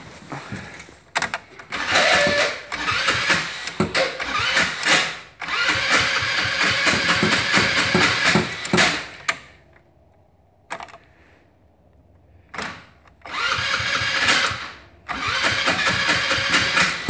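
Electric starter cranking a cold 150 cc carbureted go-kart engine in repeated bursts of a few seconds, with short pauses between and a longer pause near the middle, without the engine catching. The owner thinks it sounds like the starter is not fully engaging the flywheel.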